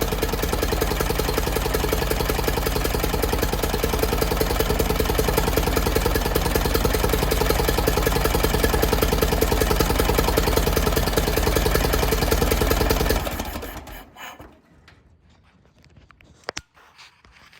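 Massey Ferguson 204 forklift's Continental gas engine idling steadily, then shut off about thirteen seconds in and running down to quiet, with a faint click near the end.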